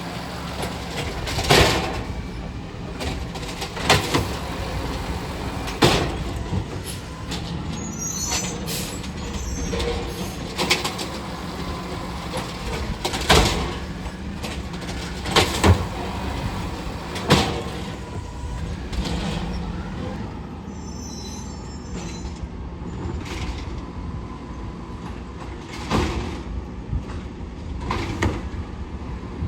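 Garbage truck engine running steadily under a series of loud bangs and clanks, the noise of bins being emptied into the truck, with a few brief high squeals.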